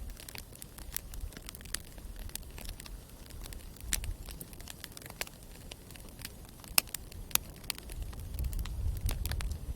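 Wood campfire crackling, with irregular sharp pops and snaps, two of them louder about seven seconds in, over a low rumble that grows near the end.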